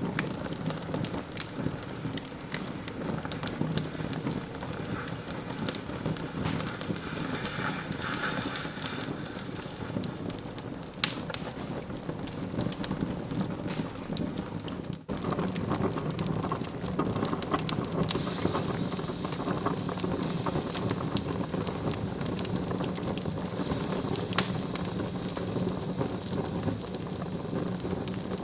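Wood fire crackling and popping in a fireplace: a dense stream of small crackles over a steady hiss, with a sharp louder pop a little before the end. The sound breaks off for an instant about halfway, and a higher hiss joins after that.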